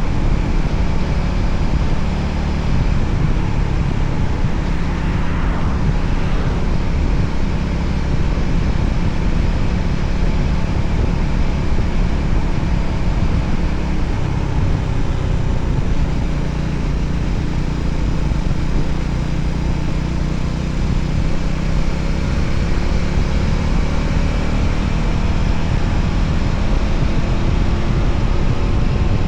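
Voge 300ACX motorcycle on the move: its engine running steadily under loud wind rush, with a few slow rises and falls in engine pitch in the second half.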